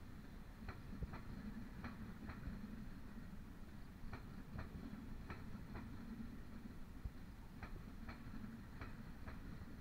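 Passing passenger train's wheels clacking over rail joints, the clicks coming mostly in pairs about half a second apart and repeating every second or two, over a steady low rumble.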